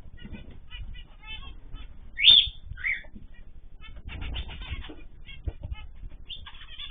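A mix of small cage birds chirping busily, with a loud rising call about two seconds in and a shorter call just after.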